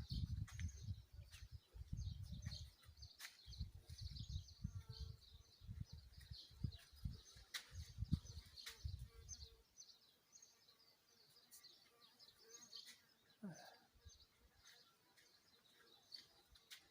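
Faint small birds chirping and twittering steadily in the background. Irregular low rumbles and thuds run for the first ten seconds and then stop, leaving only the birdsong.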